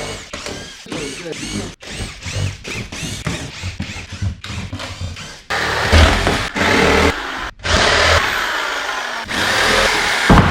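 Short bursts of construction work noise with knocks and scraping. These are followed by a power tool running in several steady stretches, one of them winding down in pitch near the end.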